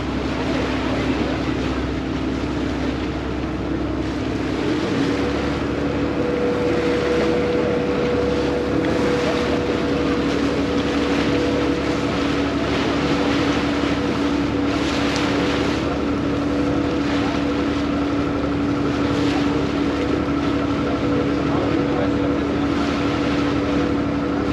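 Vaporetto water bus underway, its diesel engine running with a steady droning note that steps up slightly about five seconds in, over the rush of water and wind.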